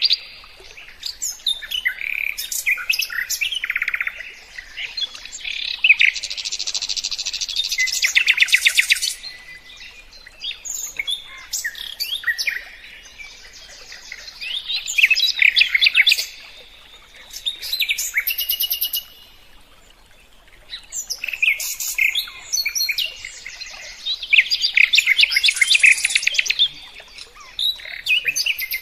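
A songbird singing loud, varied phrases of chirps, whistles and rapid trills, each burst lasting a few seconds with short pauses between, used as song-fill (isian) material for training competition birds.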